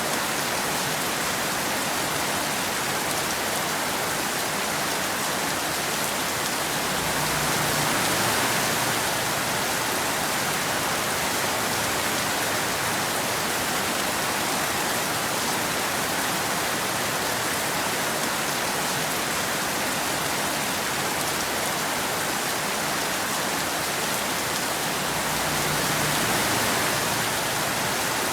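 Steady rain falling, an even hiss without breaks that swells slightly twice.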